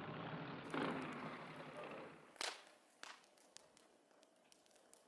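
Tail end of background music fading out, cut off by one sharp crack about two and a half seconds in, followed by faint, scattered pops and ticks of a wood campfire crackling.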